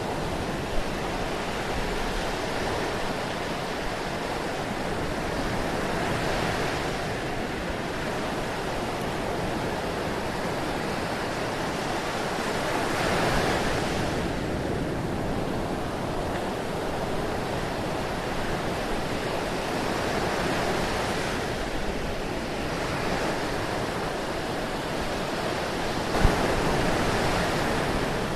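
Ocean surf: a steady wash of waves that swells and eases about every seven seconds. A sharp click sounds about a second in and another near the end.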